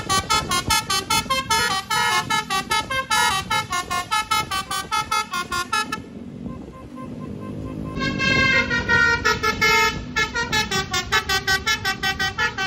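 Basuri telolet bus horn playing a fast melody of short, clipped notes. It pauses for about two seconds partway through, then starts another tune with a sliding note. A bus engine rumbles low underneath.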